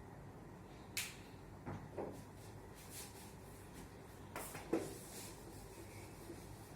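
About five short, faint knocks and taps spread across a quiet room, the loudest a little over two-thirds of the way through.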